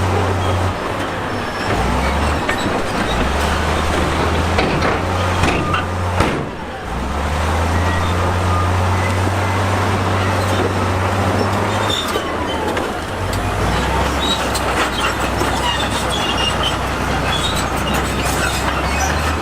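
Crawler bulldozer's diesel engine running under load, its low note stepping up and down, with clanking steel tracks and rock scraping and grinding.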